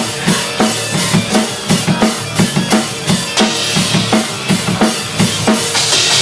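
Acoustic drum kit played in a steady beat, bass drum and snare hitting about three times a second, with a cymbal crash right at the end.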